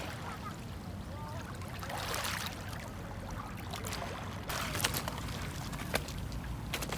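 Sea water washing and splashing over a steady low rumble, with a few sharp clicks near the end.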